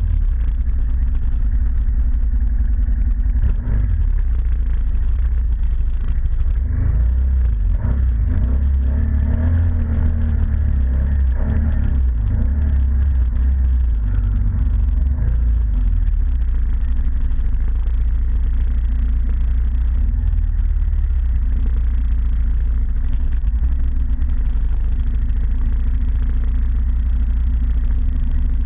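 ATV engine running steadily while riding, a constant low rumble, with some knocks and rattles in the first half.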